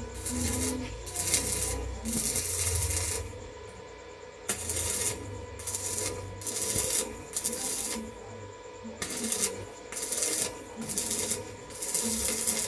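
Metal being worked by hand with a file or abrasive: about ten harsh rasping strokes with short, uneven pauses between them.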